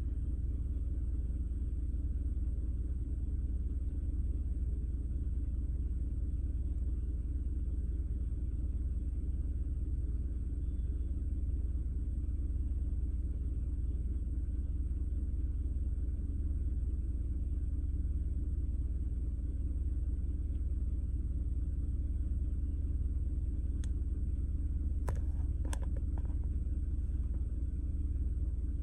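Vehicle engine idling: a steady low rumble heard from inside the cabin, with a few faint clicks near the end.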